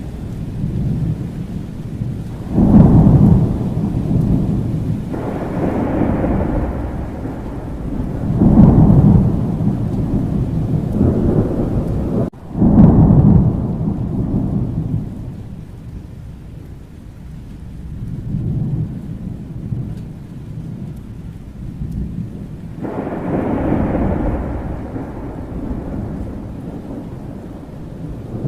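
Thunderstorm: steady rain with repeated deep rolls of thunder, the loudest about 3 and 9 seconds in. A sharp thunder crack about 12 seconds in runs straight into a heavy rumble, the storm eases for several seconds, then another roll builds near the end.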